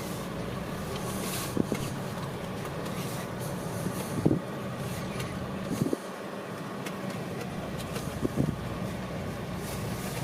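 Car running at low speed, heard from inside the cabin: a steady engine and road hum, with a few brief sharp knocks spread through.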